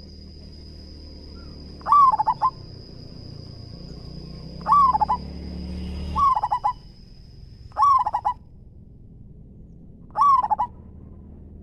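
Zebra dove (perkutut) cooing: five short calls, each a rising-and-falling coo that breaks into a quick stutter of notes. A faint steady high-pitched whine runs under the first two-thirds and stops about eight seconds in.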